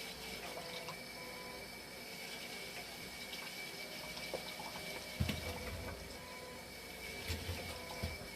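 Hemodialysis machine running while it stabilises, its fluid circuit pumping and flowing water with a steady whine. A few low thumps come about five seconds in and again near the end.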